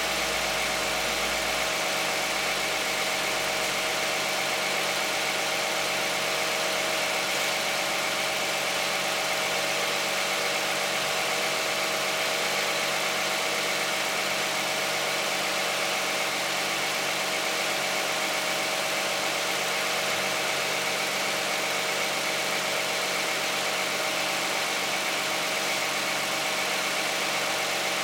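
Toyota 3.5-litre V6 (2GR-FE) of a 2010 Camry with 93,000 miles idling steadily while it warms up from a cold start, heard from the open engine bay. The running is even and fairly quiet.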